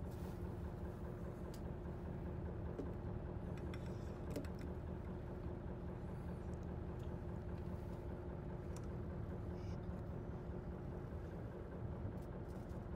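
Fishing boat's engine running steadily, a low even hum, with a few faint clicks now and then.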